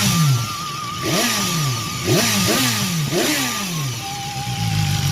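Stock exhaust of a 2016 BMW S1000XR's inline-four engine in Dynamic Pro riding mode, revved in about five quick throttle blips, each rising sharply and falling back, then settling to idle near the end.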